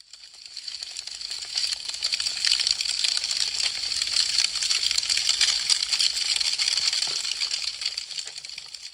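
Burning wood crackling with a dense stream of small, sharp pops. It fades in over the first second or two and fades out near the end.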